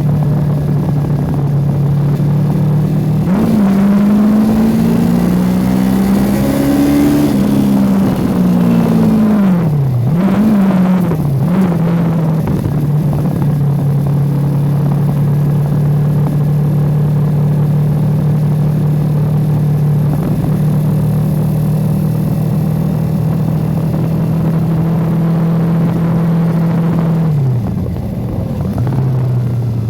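Yamaha YZF-R25 motorcycle's parallel-twin engine under way, with wind noise. The engine pitch climbs about three seconds in, rises and falls with throttle changes until about twelve seconds in, holds steady at cruise, then drops near the end as the bike slows.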